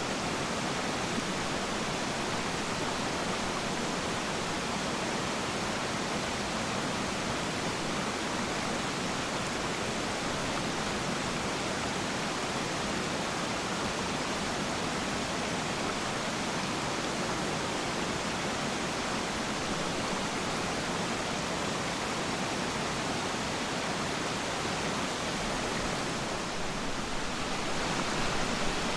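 Waterfall: a steady, even rush of falling water, a little louder near the end.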